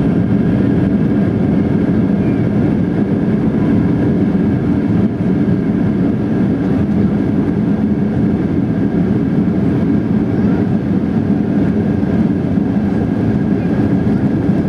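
Steady cabin noise inside a Boeing 737-800 on approach: the hum of its CFM56-7B engines and air rushing past the fuselage, with a faint steady whine above it.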